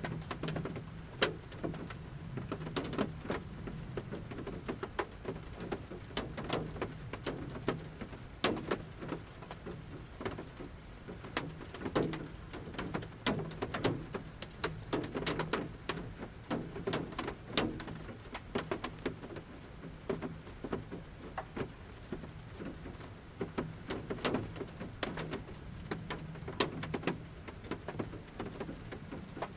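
Large raindrops falling from a forest canopy onto the roof of a camper van, heard from inside the van: irregular, separate taps and plinks, some louder than others, over a faint low steady hum.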